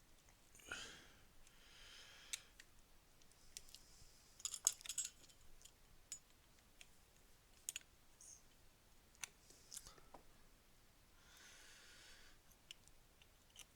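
Faint, scattered clicks and taps of a screwdriver and small plastic model parts being handled, with a short cluster of louder clicks about five seconds in and a couple of soft hissing or scraping passages.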